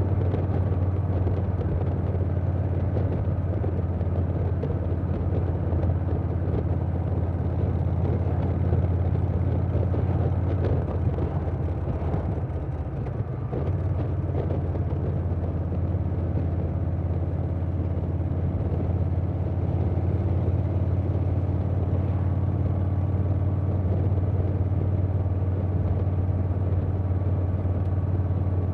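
Harley-Davidson Softail Standard's Milwaukee-Eight V-twin running at a steady cruise through a Vance & Hines Big Radius 2-into-2 exhaust, with wind noise over the mic. The engine note eases off briefly about twelve seconds in, then picks up again.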